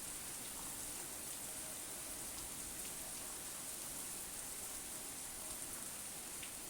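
Steady rain falling, an even hiss with a few scattered drop ticks and no thunder.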